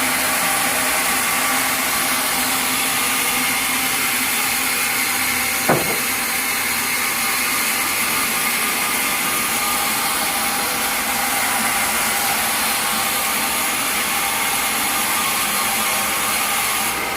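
Sawmill machinery running steadily with a constant mechanical noise and hiss, with one sharp knock just before six seconds in.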